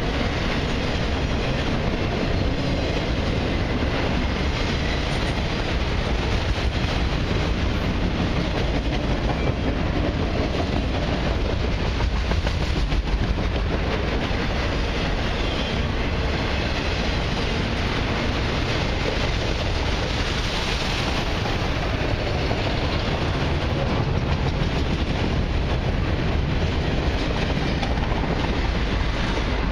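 Autorack and flatcar freight cars of a long freight train rolling past at speed: a steady rumble of steel wheels on the rails.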